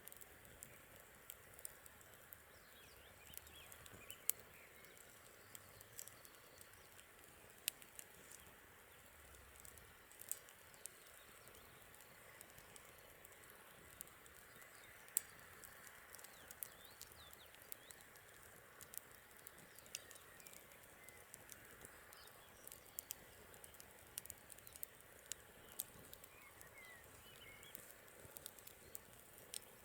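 Wood campfire crackling: irregular sharp pops and snaps, a few louder than the rest, over a faint steady hiss, with faint bird chirps now and then.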